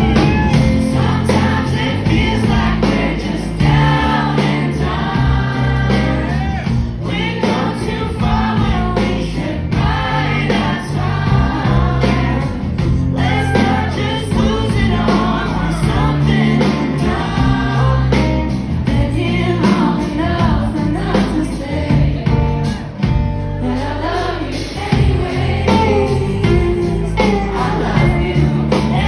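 Live band performing a song with sung lead vocals and backing voices over bass and guitar, heard loud and full.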